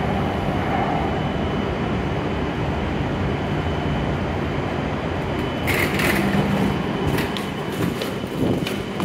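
Steady hum of a W7 series Shinkansen train standing at the platform, with a faint steady high tone. About six seconds in comes a brief hiss, then a run of sharp clicks.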